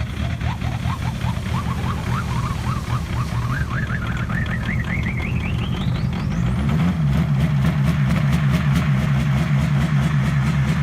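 Diesel engine running with a steady low rumble while a whine climbs in pitch in small steps for about six seconds. Then the engine settles into a steadier, louder note with a fast, regular ticking.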